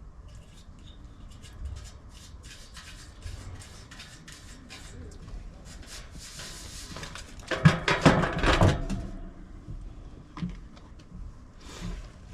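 Hands working with tools and parts: scattered light clicks and rustling, then a burst of clattering knocks about eight seconds in.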